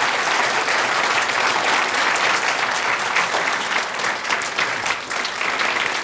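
A congregation applauding steadily, many hands clapping.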